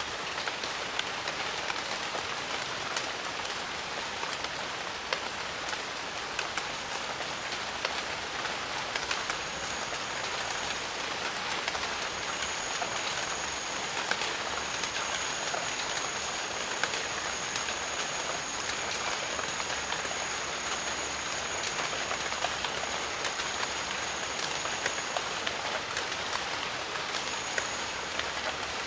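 Steady rain in a jungle: a dense, even hiss with many single drops ticking through it. A thin, high, steady whine comes in about nine seconds in and holds, with short breaks, until near the end.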